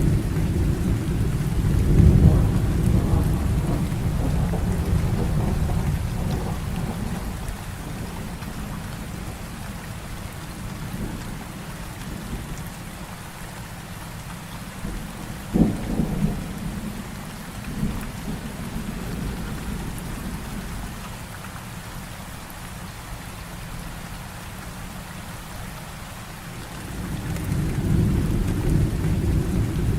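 Heavy rain falling steadily through a thunderstorm. A low rolling rumble of thunder fades over the first several seconds, a sharp thunderclap comes about halfway through with a smaller one soon after, and rumbling builds again near the end.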